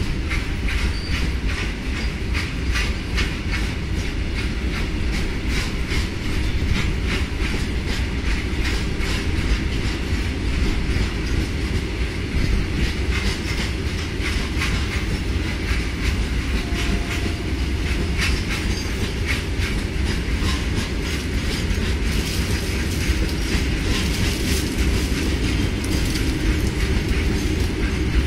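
Loaded BOXNHL open coal wagons rolling past at speed: a continuous heavy rumble with a rapid, steady clickety-clack of the wheels striking rail joints.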